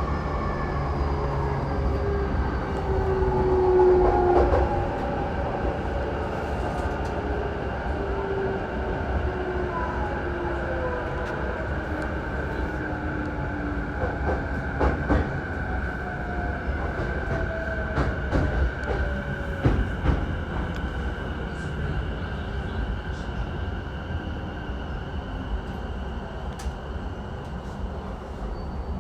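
Onboard running sound of a Saikyo Line commuter electric train: the motor whine falls steadily in pitch as the train slows, over a steady wheel-and-rail rumble, with a few sharp clicks over rail joints about halfway through.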